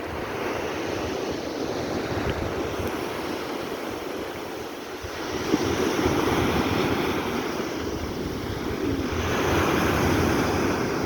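Black Sea surf washing onto the shore, swelling louder about five seconds in and again near the end, with wind buffeting the microphone.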